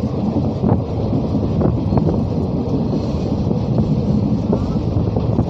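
A train running along the line, heard from aboard: a steady heavy rumble of wheels on rail with a few sharp clicks from rail joints.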